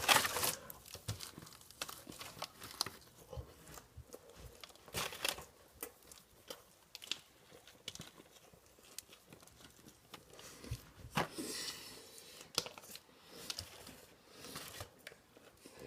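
A man eating a fast-food burger: paper wrapper crinkling and tearing, with bites and chewing. It comes as scattered, irregular crackles and clicks.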